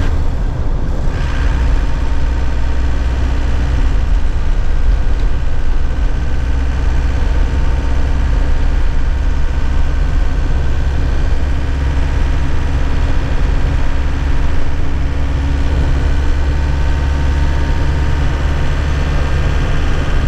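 2001 Nissan Cabstar light truck's diesel engine running steadily, heard from inside the cab as a low, even hum.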